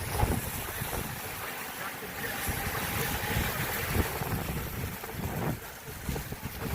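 Hurricane-force wind buffeting the microphone in gusts over a steady rush of air.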